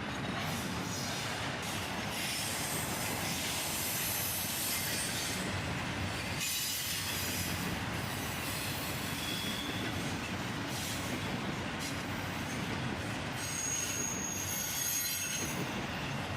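Freight train's intermodal cars rolling past, a steady rumble and hiss of steel wheels on rail. A thin, high wheel squeal rises out of it for a moment near the end.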